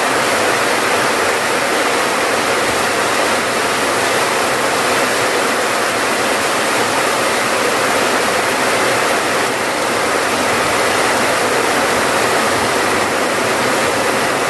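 Steady rain, a dense, even hiss that holds at one level throughout.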